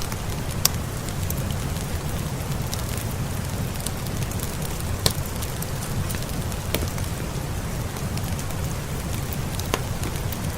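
Steady rain mixed with a crackling wood fire, with a low rumble underneath. Sharp crackles and pops are scattered throughout; the loudest come just under a second in and about five seconds in.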